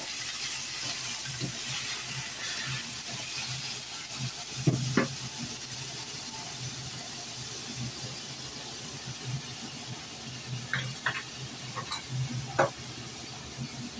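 Chicken pieces frying in a wok, a steady sizzling hiss, with a few short knocks against the pan about five seconds in and a cluster more near the end.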